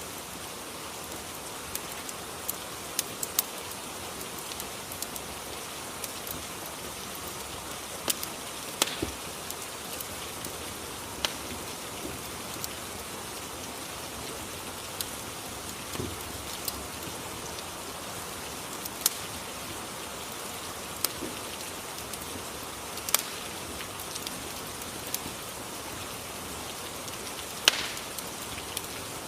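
Ambience track of steady rain hiss with scattered sharp crackles from a fireplace, a dozen or so spread irregularly through it.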